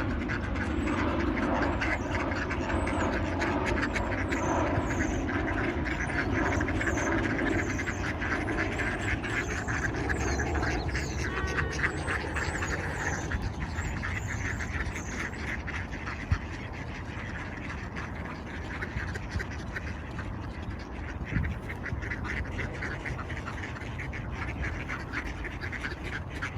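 A flock of ducks quacking continuously as they crowd and scramble for thrown food, with short high chirps over the top, busiest in the first half.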